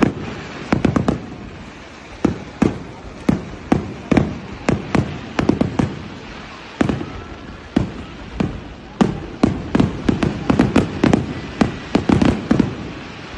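Fireworks exploding: an irregular, rapid series of sharp bangs and cracks, sometimes several a second, some followed by a low rumbling echo.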